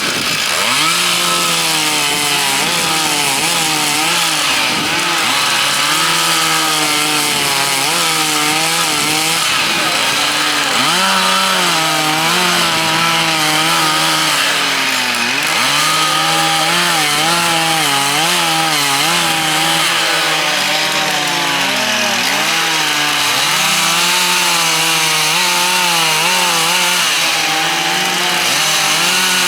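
Several chainsaws cutting into wood at once, their engines revving up and dropping back over and over as the carvers work.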